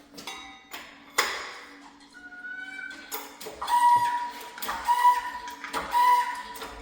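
Metallic clinks and a sharp, ringing knock of metal parts, followed by a high pitched squeal that repeats about once a second.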